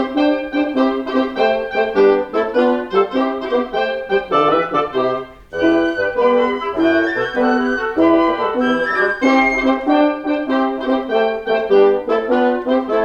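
Live woodwind quintet of flute, oboe, clarinet, bassoon and French horn playing classical chamber music, the parts moving in quick overlapping lines, with a brief break about five seconds in before the playing resumes.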